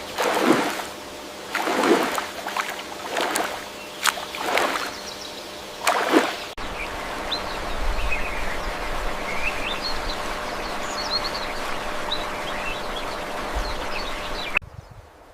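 Water splashing in a run of swishes about every second and a half, then, after a sudden cut, a steady rush of flowing water with small birds chirping over it.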